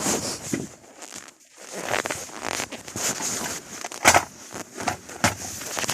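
Irregular rustling and crackling handling sounds, with one sharp knock a little after four seconds in.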